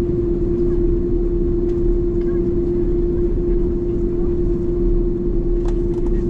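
Steady drone of an Airbus A330 heard inside the passenger cabin: engine and air-system noise with a constant hum over a low rumble, unchanging in level.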